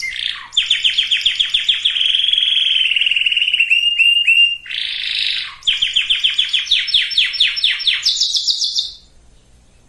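Canary singing: a run of rapid trills, each a fast string of the same note repeated, with a rougher rasping phrase about five seconds in. The pitch steps up between phrases, and the song stops about nine seconds in.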